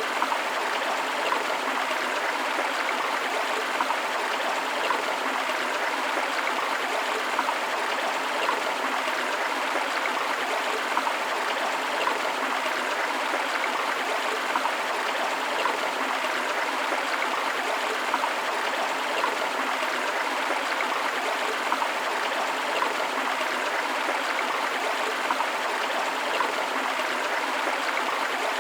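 A forest river running steadily over rocks: an even rush of water, with small splashes and gurgles flicking up through it every second or so.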